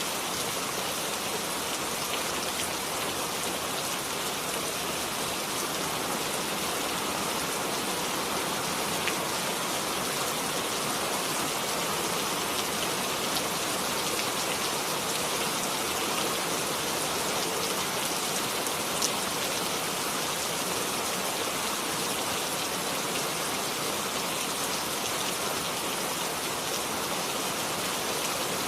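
Steady, even rain falling, with occasional single drops ticking out a little louder.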